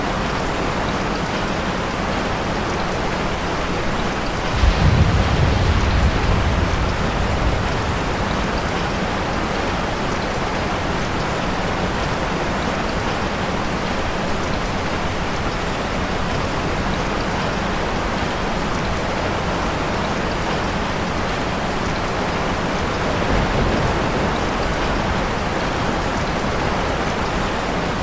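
Steady rain falling, with a low rumble of thunder about five seconds in that fades over two or three seconds.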